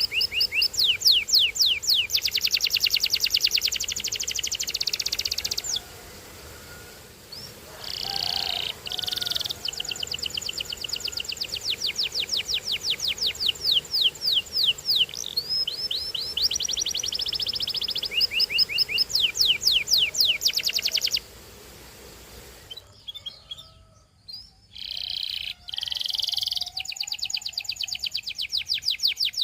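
Canary singing: long, fast trills of rapidly repeated sweeping notes, with a few louder held notes in between, and two pauses of a second or two.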